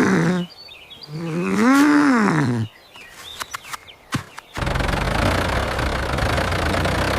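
Two drawn-out animal calls: a short falling one, then a longer one that rises and falls. A few clicks follow, and then, about four and a half seconds in, a steady low rumbling noise starts and carries on.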